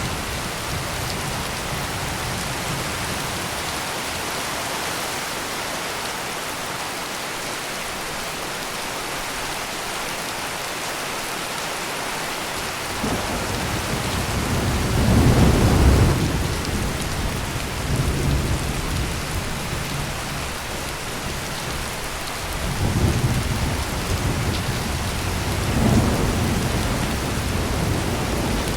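Heavy rain pouring steadily, with rolling thunder that builds about halfway through to a loud peak, then rumbles on in a few weaker swells toward the end.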